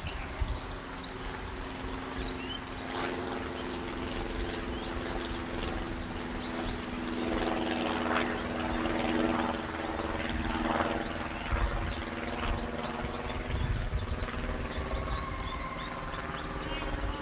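Birds chirping: many short, quick calls throughout. Under them is a steady low hum, like a motor's, that fades out about two-thirds of the way through, with occasional low rumbling.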